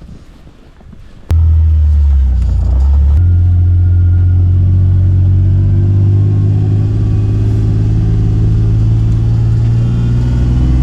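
A vehicle engine running steadily with a low hum. It comes in suddenly about a second in, shifts pitch a couple of seconds later, and then holds steady.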